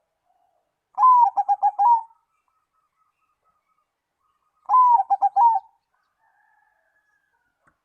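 Zebra dove cooing: two song phrases about four seconds apart. Each is an opening coo, a quick run of short, lower rolling notes and a closing note.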